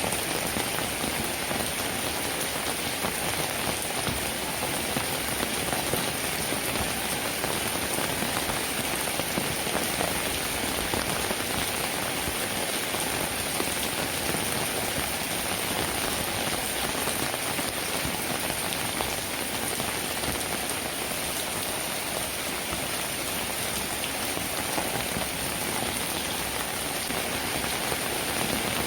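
Steady rain falling on a roof: a constant, even hiss of many drops, with no thunder or other events.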